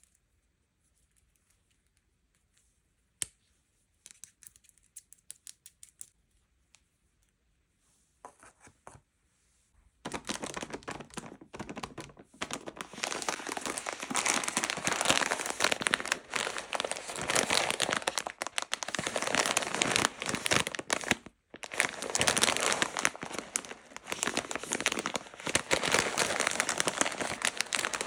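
Sweet or toy packaging being unwrapped. A few soft rustles and a single click come first, then from about ten seconds in the wrapper is crinkled and torn continuously, with a brief pause a little past the middle.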